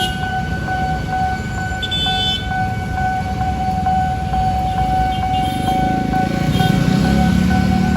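Level-crossing warning bell sounding a continuous electronic tone, while a train's low rumble builds and grows louder through the second half as it nears the crossing.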